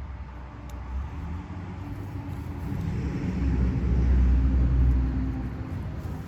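A motor vehicle driving past: a low engine rumble that swells to its loudest about four seconds in, then fades away.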